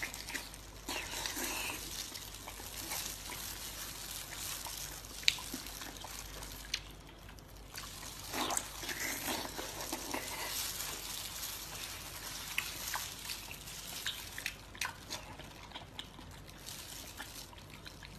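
Wet chewing and lip-smacking of a mouthful of soft fatty pork, with scattered sharp smacks and clicks at uneven intervals.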